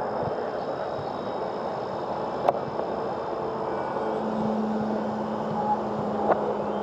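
Electric RC airplane's motor and propeller heard from the ground as a faint steady hum in outdoor background noise, a little stronger from about four seconds in, with a sharp click about two and a half seconds in.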